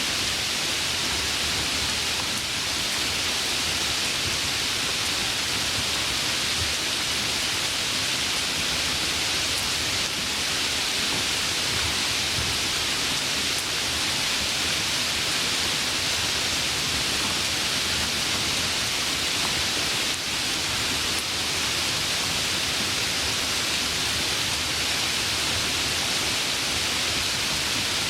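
Heavy rain falling steadily, an even hiss with no thunder or other distinct events.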